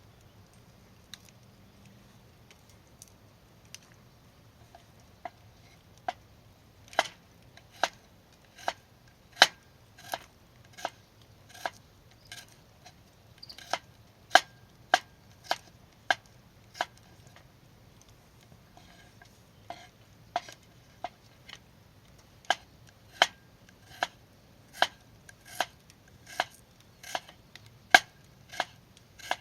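Kitchen knife coming down on a cutting board, one cut at a time at roughly one stroke a second. The strokes are faint at first, then sharp and loud, with a short pause in the middle before they resume.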